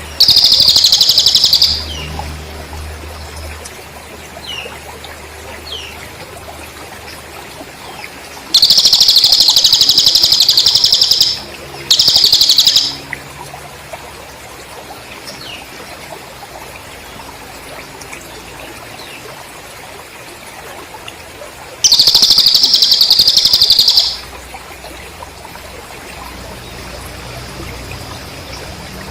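Bird-training recording of cililin bird song and cricket sounds: four loud bursts of a rapid, even trill at one steady pitch, with faint short chirps in between.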